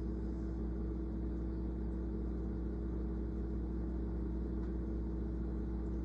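Steady low mechanical hum of a running motor, unchanging throughout, with one strong steady tone over a deep rumble.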